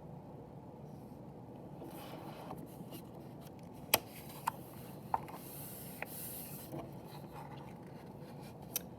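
Paper rustling and a few sharp clicks of a picture book being handled and its page turned, over a low steady room hum.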